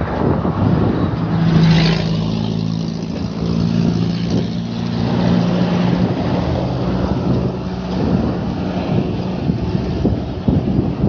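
A motor vehicle's engine hums steadily close by for several seconds, fading out about eight seconds in. Rushing road and wind noise runs underneath, with a brief louder gust about two seconds in.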